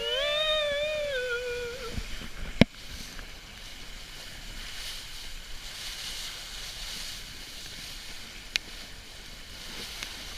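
Steady rush of wind and water passing a small sailing boat under way. A long, drawn-out voice call fills the first two seconds, and a single sharp knock comes about two and a half seconds in, with a smaller click later.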